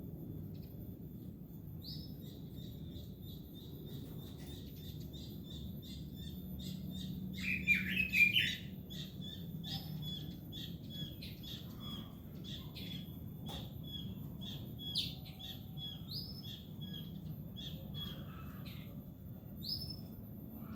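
Pekin robin (red-billed leiothrix) singing in full song: a continuous run of quick high chirps and short upswept whistles, with a louder, rapid warbling phrase about eight seconds in.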